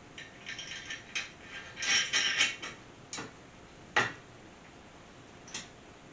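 Metal hardware of an engine stand being handled during assembly: bolts, washers and nuts clinking and jingling for the first couple of seconds, then a few single sharp metal knocks, the loudest about four seconds in.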